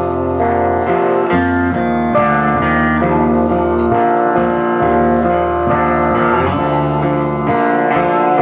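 A live band playing an instrumental passage led by guitar, with chords changing about once a second over held low notes and no singing.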